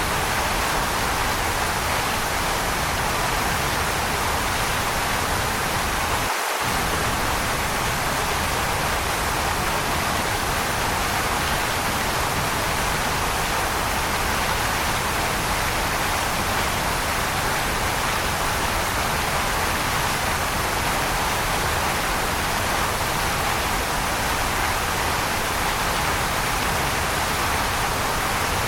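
Waterfall rushing: a steady, even roar of water with no changes in level. The lowest rumble drops out for a split second about six seconds in.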